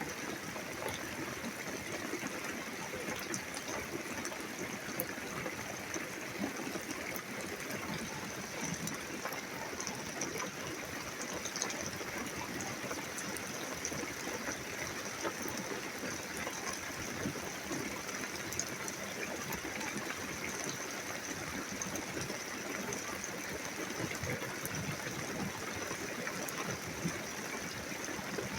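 Steady rain falling during a thunderstorm: an even hiss with many small ticks of drops and no thunderclap.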